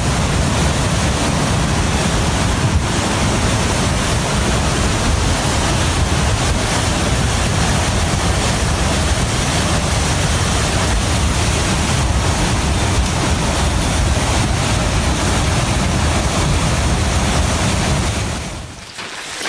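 Loud, steady rush of flash-flood water surging through a village street, with heavy wind rumble on the microphone. It falls away sharply near the end.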